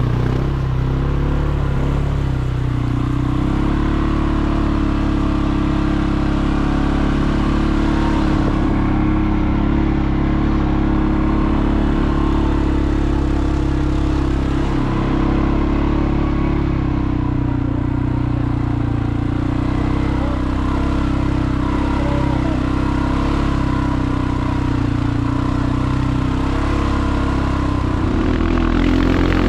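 A vehicle engine running steadily on the road, its low hum stepping to a new pitch a few times.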